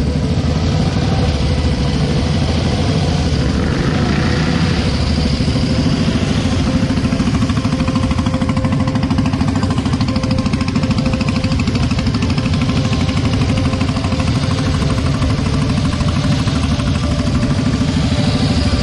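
Motorcycle engine running steadily with a fast, even beat.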